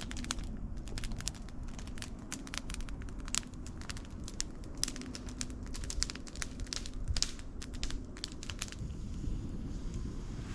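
Campfire crackling and snapping, with dense irregular pops that stop abruptly about nine seconds in.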